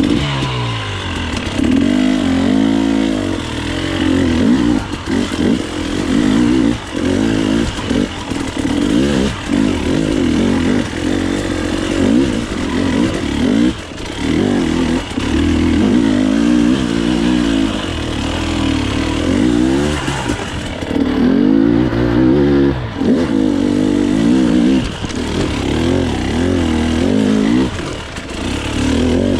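Two-stroke dirt bike engine ridden hard, its pitch rising and falling over and over with each burst of throttle. Frequent short knocks and clatter from the bike are mixed in.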